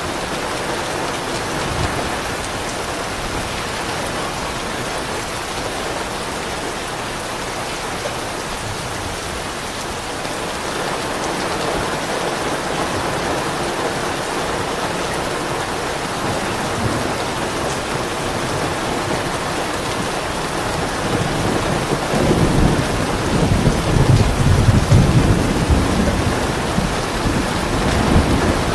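Steady rain falling, with a low roll of thunder coming in about three-quarters of the way through and rumbling for several seconds.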